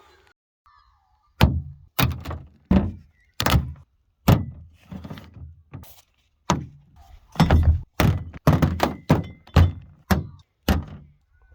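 A series of about fifteen heavy thunks and knocks, irregularly spaced, each dying away quickly.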